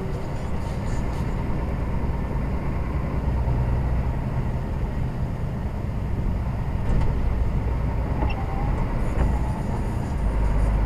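Lorry engine and road noise as a steady low rumble, swelling slightly a few seconds in and again near the end.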